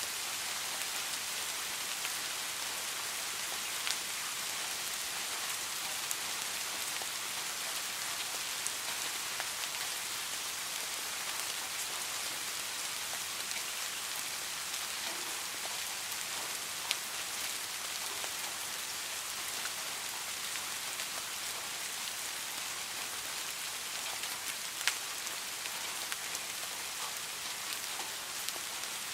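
Steady rain falling, a constant even hiss, with a few sharper single drop ticks standing out now and then.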